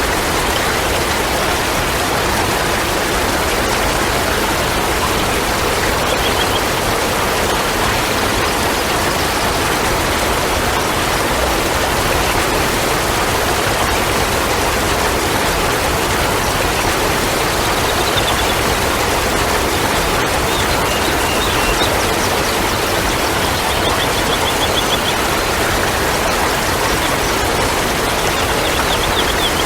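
Steady rush of running water, even and unbroken, with a few faint, short high chirps over it now and then.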